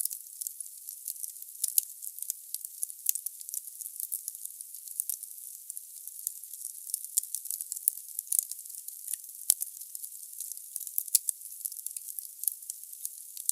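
Firewood burning in a fireplace: a steady hiss with frequent crackles, and one sharper pop about nine and a half seconds in.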